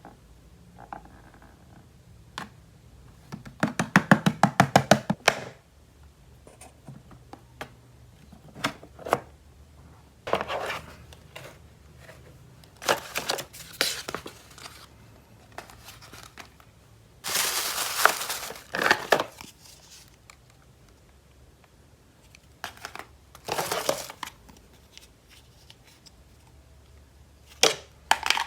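Plastic toy packaging being handled, crinkled and torn open in several separate bursts, with a quick run of clicks, about ten a second, a few seconds in.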